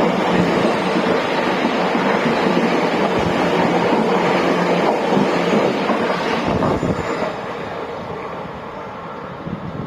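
Electric train running past at speed: a loud steady rush of wheel and air noise with a low hum, fading away over the last few seconds as it goes by.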